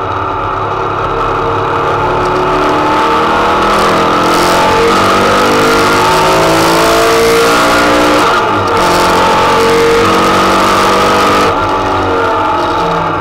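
KLAUS 2.6-litre Type 4 air-cooled flat-four race engine, with Weber 48 IDA carburettors and a 4-into-1 header, heard from inside the stripped Beetle's cabin under hard acceleration. The revs climb steadily, break briefly for an upshift about eight and a half seconds in, climb again, then fall away as the throttle comes off near the end. A hiss of tyre spray from the wet track sounds under the engine while the car is at speed.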